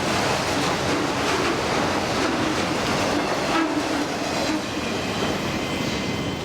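Freight cars of a CN freight train rolling past on steel rails, wheels clicking over rail joints in a steady rumble that eases slightly about two-thirds of the way through.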